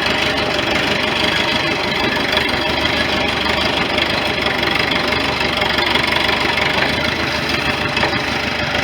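Engine of a 1973 International 3444 loader tractor running steadily.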